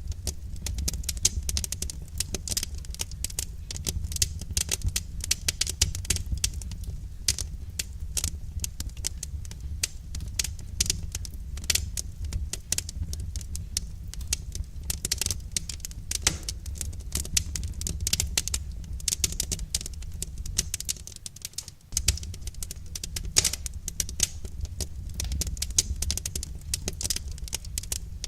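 Wood fire crackling, with dense irregular snaps and pops over a steady low rumble. The rumble briefly drops away about three-quarters of the way through.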